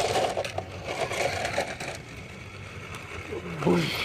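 Crunching and crackling, loudest for the first second and a half, then dying down; a short voice near the end.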